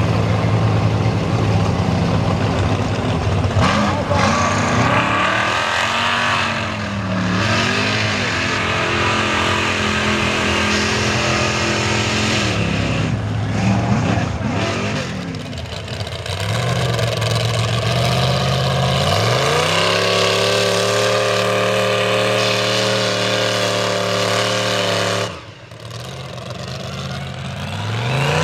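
Large mega truck engine revving hard, its pitch climbing and falling several times, then held high and steady for about five seconds. The engine note drops away suddenly about 25 seconds in and revs back up near the end.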